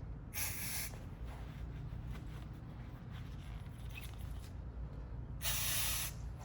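Two short sprays from an aerosol can, one just after the start and a longer, louder one near the end.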